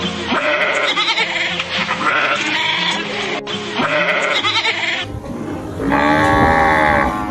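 Bleating livestock: several short bleats, then after a cut one longer bleat that rises and falls, over background music.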